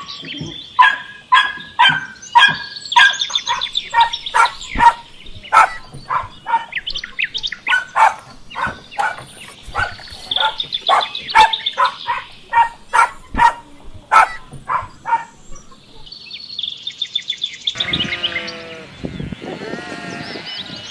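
Animal calls: a long run of short, sharp, rapidly repeated calls for about fifteen seconds, then sheep bleating from about eighteen seconds in.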